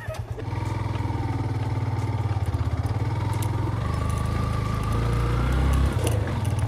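Yamaha FZ V2 motorcycle's single-cylinder engine running under load on a rough track, its level stepping up about half a second in. It grows louder near the end, then drops off briefly.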